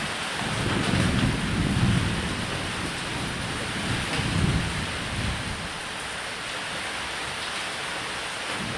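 Steady heavy rain with thunder rumbling low twice, the first roll starting about half a second in and the second around four seconds in.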